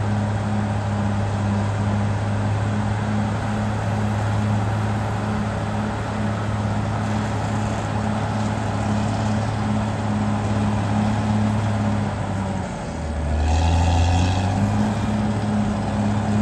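Caterpillar D6R XL bulldozer's diesel engine running steadily. About three-quarters of the way through, its note dips lower for a moment and then comes back up, with a short, louder burst of higher-pitched rasping noise.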